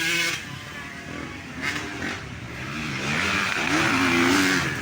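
Motocross dirt bike engines revving, their pitch rising and falling. They grow louder about three seconds in.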